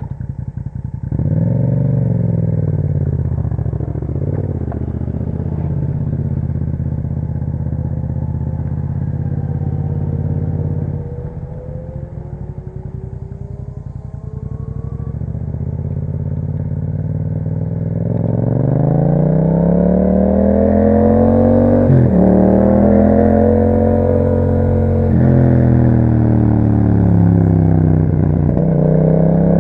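2021 Yamaha MT-07's 689 cc parallel-twin engine running through an Akrapovic exhaust while riding: steady cruising at first, easing off about a third of the way in, then accelerating through the gears, the pitch climbing and dropping sharply at each of three shifts near the end.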